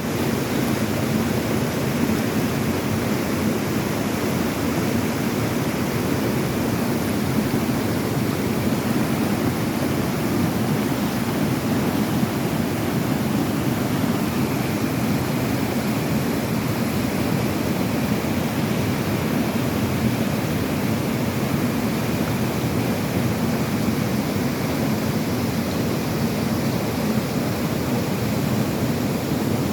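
Mountain river running high in a downpour: a steady, unbroken rush of water.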